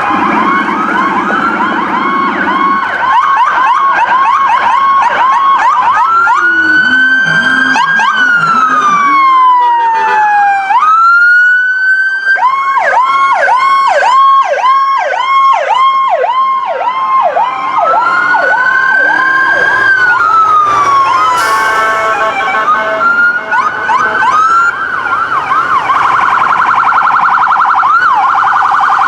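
Several police car electronic sirens sounding at once as the units pass. Rapid yelp whoops, about two a second, overlap slow rising and falling wails, and a fast warble comes in near the end.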